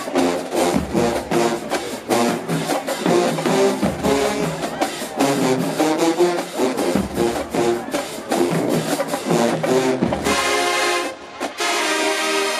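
HBCU show-style marching band playing: brass horns over a fast, steady drum beat. About ten seconds in the drums stop and the horns go on in held chords.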